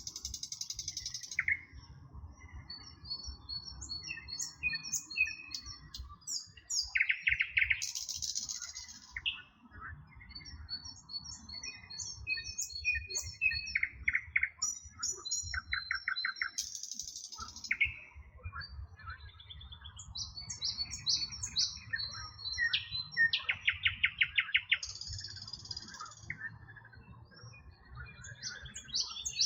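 Several songbirds singing together: overlapping high chirps and whistled notes, with repeated rapid trills, over a low steady background rumble.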